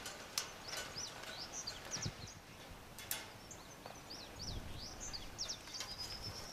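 Small birds chirping in a quick run of short, high chirps, with a couple of sharp clicks about half a second and three seconds in.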